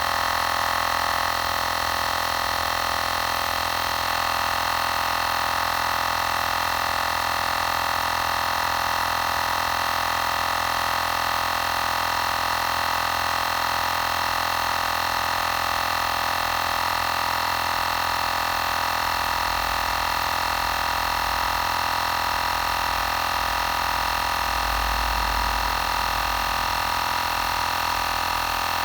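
Xiaomi Portable Electric Air Compressor 2 running steadily with a constant whine, pumping up a nearly flat spare tyre.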